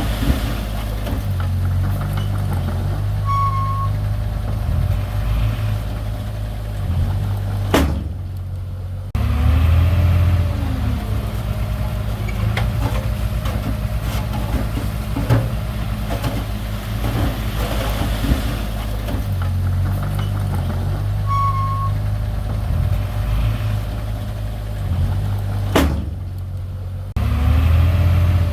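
Diesel engine of heavy earth-moving machinery running, its note stepping up and down as it works, with two sharp clicks.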